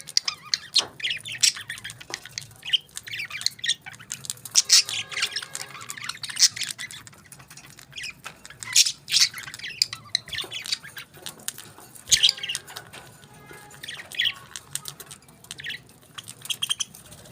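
Pet parrots squawking and chirping in a rapid, irregular run of short, high calls.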